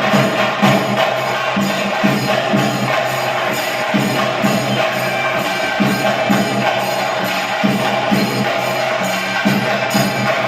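Live ritual percussion for a Muthappan vellattam: drums struck in a steady rhythm with jangling cymbals over a continuous held tone.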